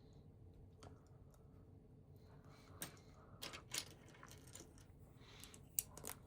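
Small hard plastic LEGO pieces clicking and clattering against each other as they are handled, in a handful of separate light clicks, the sharpest near the end.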